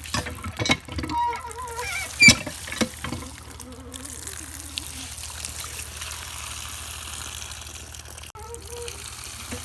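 Water from a hand-pump tube well pouring and trickling over toy cars being washed by hand, with a few knocks and splashes in the first three seconds, the loudest about two seconds in. After that the water runs steadily.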